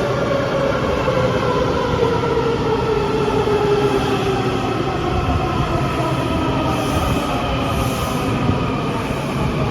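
Washington Metro train running through the station, with a steady rumble and a whining tone that falls steadily in pitch over the first half.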